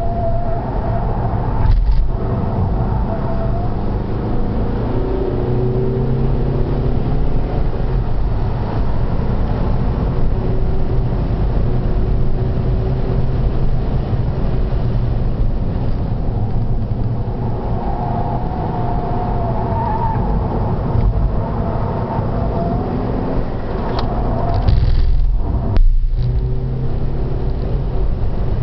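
Seat Altea FR's engine pulling hard on a race track, with road and wind noise. Its pitch climbs steadily under acceleration and breaks off briefly twice, about two seconds in and again near the end, as at gear changes.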